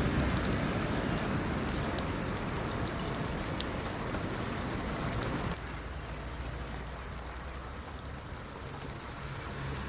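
Rain falling, an even hiss with scattered single drops ticking close by. Just past halfway the sound drops abruptly to a softer, duller level.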